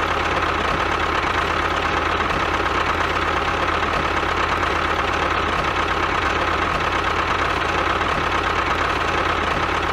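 A small motor running steadily at an even speed, with a constant high whine over a low hum.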